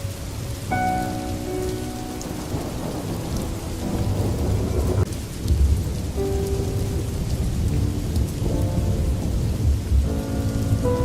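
Steady rain with thunder rumbling low through the middle, under soft sustained musical chords that change every few seconds.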